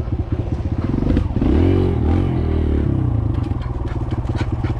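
Kawasaki KLX140L's small single-cylinder four-stroke engine putting along, revving up briefly about a second and a half in and falling back to a low putter as the bike is ridden and braked hard for a stoppie attempt. Light rattles and clicks from the bike come through over the engine.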